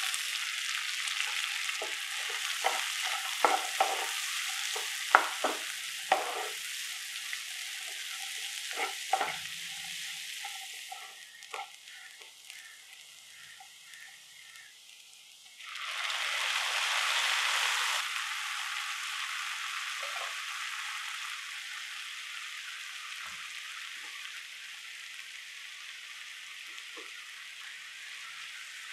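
Sliced shallots frying in hot oil in a non-stick pan, sizzling steadily, with a spatula knocking and scraping against the pan over the first ten seconds. About halfway through, the sizzle grows suddenly louder for a couple of seconds, then settles to a steady, quieter sizzle.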